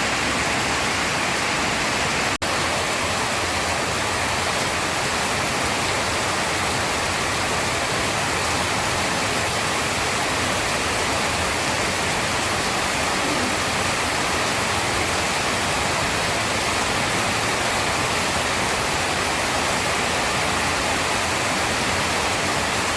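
Heavy rain pouring down in a steady, even rush, with a momentary break about two seconds in.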